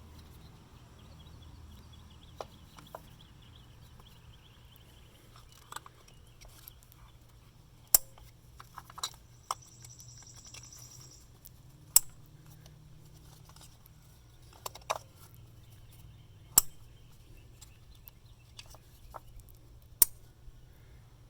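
Ignition coils being fitted back onto the engine: sharp plastic clicks as coils and their connectors snap into place, four loud clicks about four seconds apart, with lighter handling taps between.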